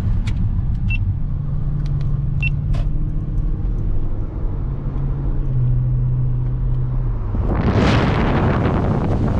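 Car engine running at low revs with a steady low hum and a few light clicks. About eight seconds in, a loud rush of wind noise swells up on the microphone.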